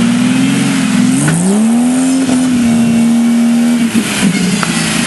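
Off-road vehicle's engine running, revving up about a second in and holding high revs for a couple of seconds, then dropping back near the end.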